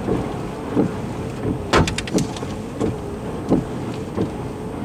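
Golf-ball-sized hail striking the vehicle's roof and windshield in scattered, irregular knocks, heard from inside the car over a steady hiss of wind-driven rain.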